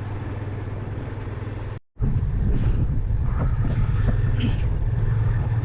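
Motorcycle engine running at road speed with wind rushing over the microphone, a steady low rumble. About two seconds in, the sound cuts out for a moment and then comes back louder.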